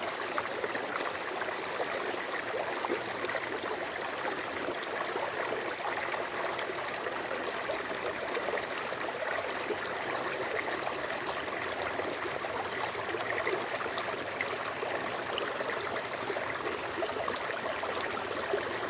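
Water of a stream running steadily, a continuous flowing rush with no breaks.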